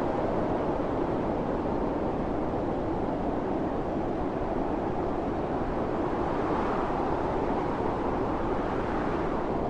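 Snowstorm wind howling and blowing snow: a steady, even rush that swells a little about two thirds of the way through.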